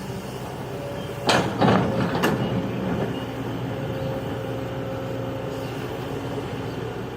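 Heavy diesel engine of a Kobelco excavator running steadily, with three sharp clunks about a second in, a fraction of a second apart.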